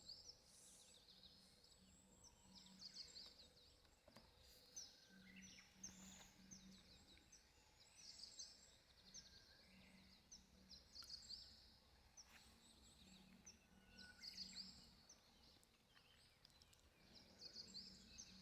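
Faint birdsong: small birds chirping in quick high-pitched phrases that repeat every second or so, with a faint low hum coming and going.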